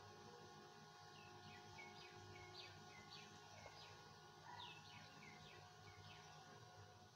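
Faint bird chirping: a run of about a dozen short chirps, each falling in pitch, over a low steady hum.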